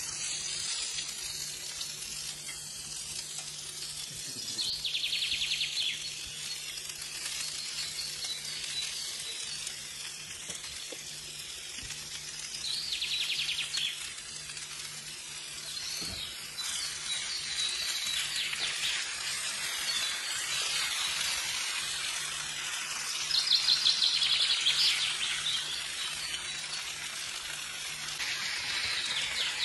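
Food sizzling in oil on a hot sizzler plate: a steady hiss with louder spells of crackling about five seconds in, about thirteen seconds in, and loudest about twenty-four seconds in.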